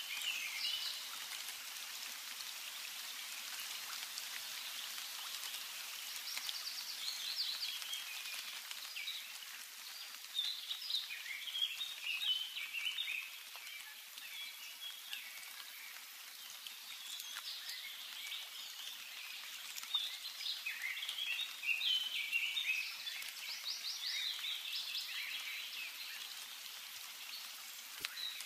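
Songbirds singing in several bouts of quick, high chirps and trills, strongest about 10 to 13 seconds in and again from about 18 to 25 seconds in, over a steady background hiss.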